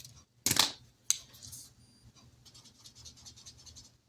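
Quick, faint scratching strokes of a pen on paper, filling in small boxes on a tracker sheet. Two short, louder rustling knocks come before them, about half a second and a second in.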